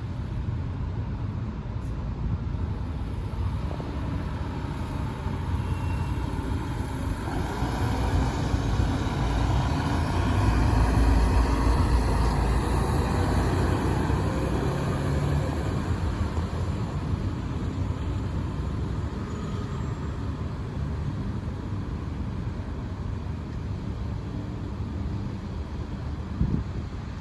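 Fire engine's diesel engine running as the truck drives past and pulls away, a steady rumble that grows loudest about ten seconds in and then fades.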